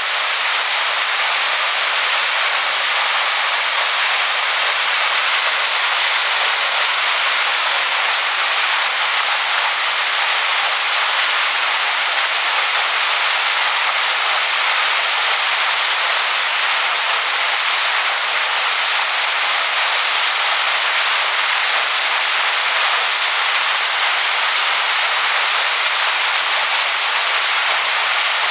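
Waterfall pouring onto rocks: a loud, steady hiss of falling water, bright and high with almost no low rumble.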